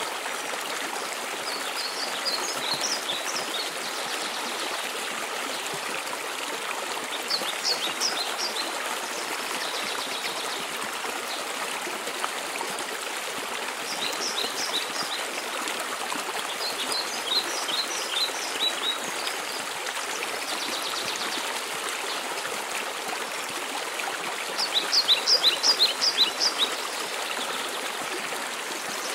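Steady rush of a mountain waterfall, with a songbird singing short phrases of quick, high chirps every few seconds, the loudest phrase near the end.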